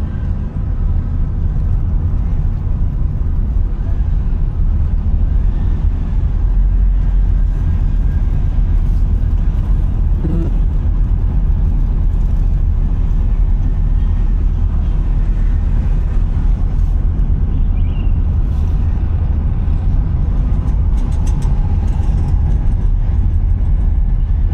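Car driving on the road: a steady, heavy low rumble of engine and tyres, with faint traffic sounds above it.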